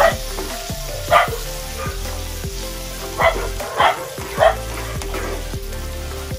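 Tomatoes, onion and garlic sizzling in hot oil in a frying pan as they are stirred with a slotted spatula. About five short, loud sounds stand out over the sizzle.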